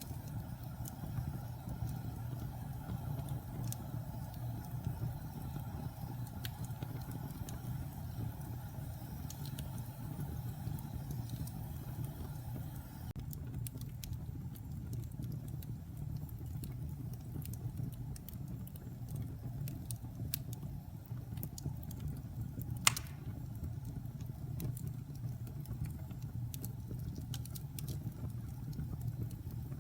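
Wood fire in a fireplace burning with a steady low rumble and scattered crackles, and one sharp loud pop about 23 seconds in.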